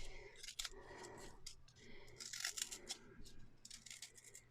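Faint, irregular scraping and scratching of a homemade scraper tool worked through thick rebatched soap, in many short strokes and light clicks.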